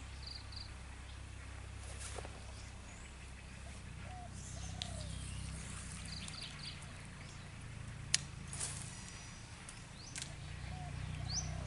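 Small birds calling in short high chirps and a few lower curved notes, over a steady low rumble; a single sharp click about eight seconds in.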